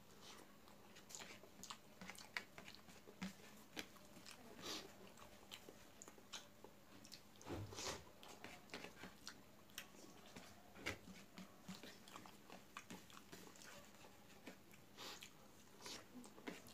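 Faint, close eating sounds: a person chewing a mouthful of rice and curry, with irregular soft mouth smacks and clicks, a few louder ones partway through.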